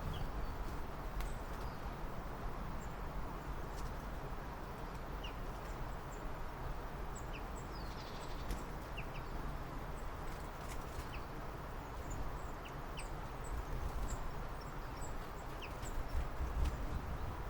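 Small birds giving short, scattered high chirps over a steady background of outdoor noise with a low rumble.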